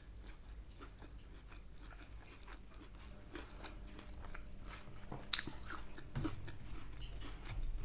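Close-miked chewing and crunching of crispy fried takeaway food: many small crunches, growing busier in the second half, with one sharper click about five seconds in.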